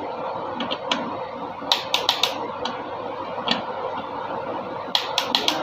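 Sharp metallic clicks of hand tools at work on an engine: two quick clusters of three or four clicks, with single clicks between, over a steady background hiss.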